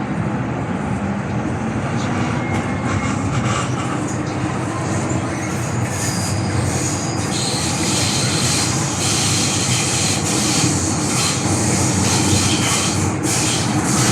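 MTR M-train electric multiple unit running along the track, heard from on board: a steady rumble of wheels and running gear. It grows louder, with more hiss in the upper range, from about six seconds in.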